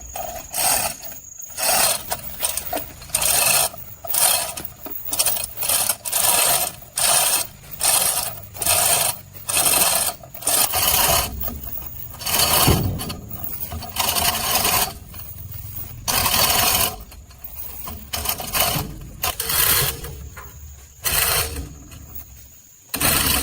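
Repeated scraping strokes from a hand tool, a bit faster than one a second, with a short pause about halfway through.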